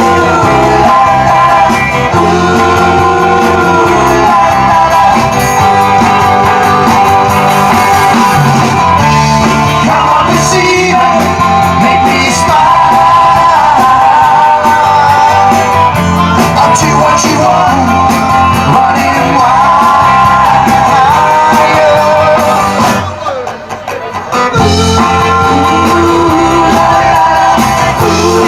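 Live rock band playing loud amplified music, with a brief drop in level a few seconds before the end.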